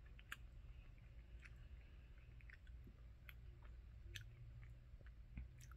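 Faint close-up chewing of a jelly bean: small, irregular mouth clicks over a low steady hum.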